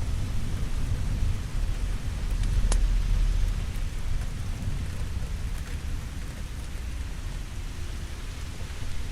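Steady rain with low thunder rumbling, swelling a couple of seconds in and then easing off. A single sharp crackle from a wood fire comes a few seconds in.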